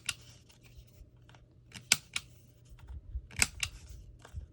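Paper being cut and handled in paper crafting: a handful of short, sharp snips or clicks, two close together about two seconds in and two more about three and a half seconds in, over light paper rustling.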